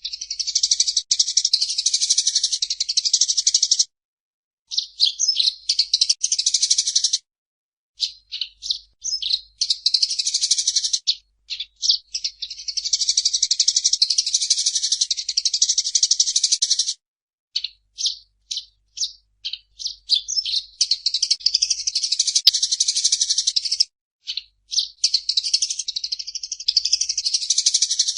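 Eurasian tree sparrow chirping in rapid, chattering bouts that last several seconds, broken by short pauses and runs of separate chirps.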